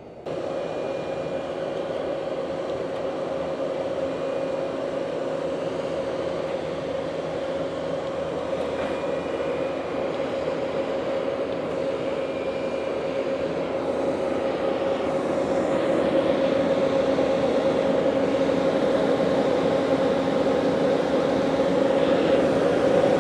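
Heavy-equipment engine running steadily with a humming drone, slowly getting louder over the stretch as the machine pushes a load.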